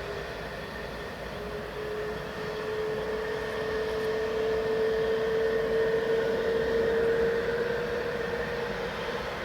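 Boeing 777F's GE90 jet engines running with a steady whine over a rushing hum as the aircraft comes in to land. It grows louder to a peak a little past the middle and then eases off.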